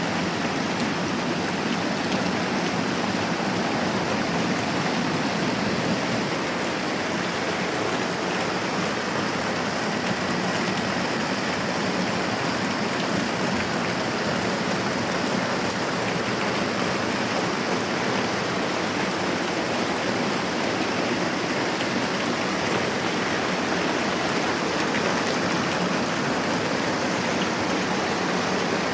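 Moderate rain falling steadily, an even, unbroken hiss.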